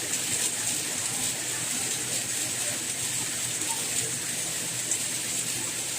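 Soft rain falling steadily: an even, high-pitched hiss.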